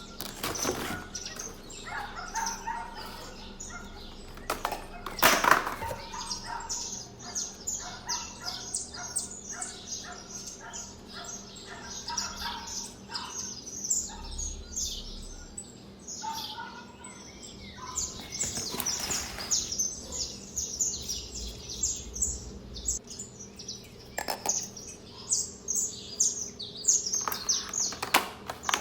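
Small birds chirping rapidly and repeatedly in the background, with a few brief rustles or knocks, the loudest about five seconds in.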